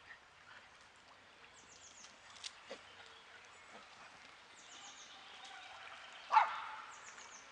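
Songbird singing: a short phrase of quick falling high notes repeats three times, over faint outdoor ambience. One loud, sharp sound stands out about six seconds in.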